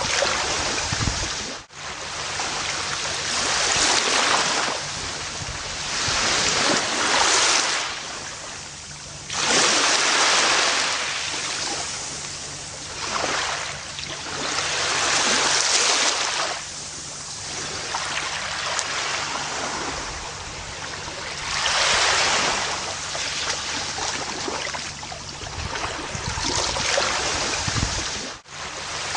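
Gentle ocean waves washing up on a beach, each surge swelling and ebbing every few seconds. The sound briefly drops out twice, near the start and near the end.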